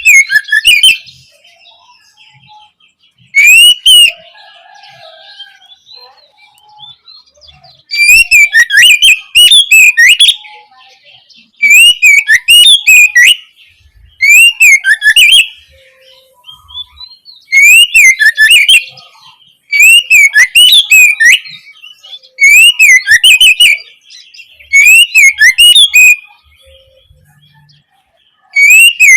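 Oriental magpie-robin (kacer) singing: loud short phrases of quick rising-and-falling whistles and sharp notes, repeated about every two to three seconds with brief pauses between.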